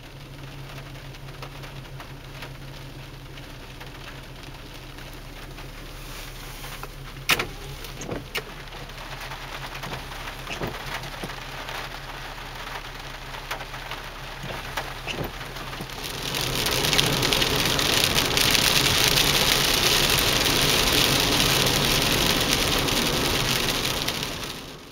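Rain falling, with a few sharp taps of drops striking close by, then a much heavier downpour from about two-thirds of the way through: a loud, steady hiss that fades out at the very end.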